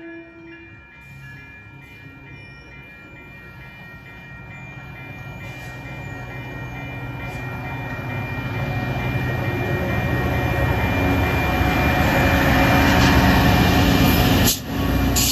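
Caltrain push-pull commuter train rolling past, its EMD F40 diesel locomotive pushing at the rear. Engine rumble and wheel noise grow steadily louder as the locomotive draws near and passes close, with a steady high whine throughout. The sound breaks off briefly near the end.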